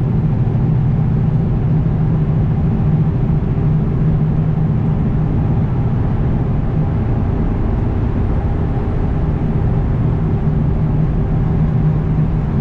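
Kenworth W900 semi-truck's diesel engine running steadily while driving, a constant low drone with road noise over it.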